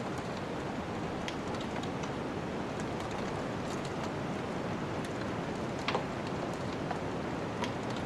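Wood fire crackling in a fireplace, with scattered sharp pops at irregular intervals, the loudest about six seconds in. Underneath runs a steady rushing of snowstorm wind.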